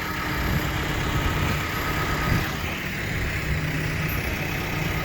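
Reach forklift's engine running steadily at idle, with a faint thin whine over it in the first half.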